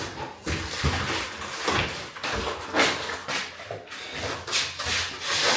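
Irregular knocks, bumps and scrapes of a large boxed washing machine being handled and moved.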